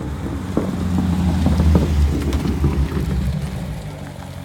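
A car's loud V8 engine running with a deep rumble. It grows to its loudest about two seconds in, then fades away.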